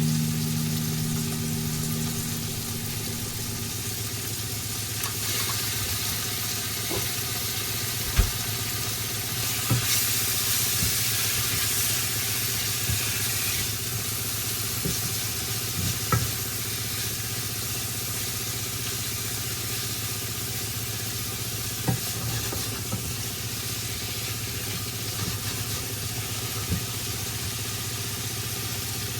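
Curry sizzling and frying in a pan, a steady hiss over a constant low hum, with a few short knocks of a spoon against the pan as it is stirred.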